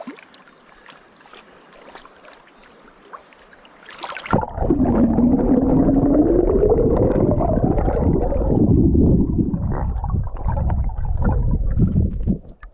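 Swift river current rushing past, then a splash about four seconds in as the GoPro is plunged underwater. After that comes loud, muffled underwater rushing and gurgling with a hum that rises and falls in pitch, heard through the submerged camera's housing. It cuts off abruptly near the end as the camera comes back up.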